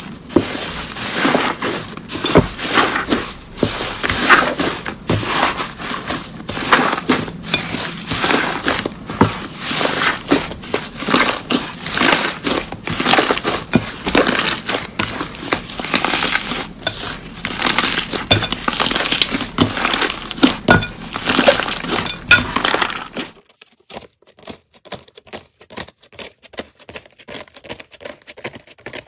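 Crunchy slime being pressed and squeezed, a dense run of crackling pops. About 23 seconds in it gives way to much quieter, sparser crackling.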